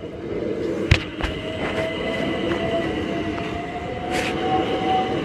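Southern Class 377 Electrostar electric multiple unit passing close by as it pulls away from the station, its traction motors whining with a pitch that rises slightly as it gathers speed. Two sharp wheel knocks come about a second in as the bogies cross the rail joints at the crossing.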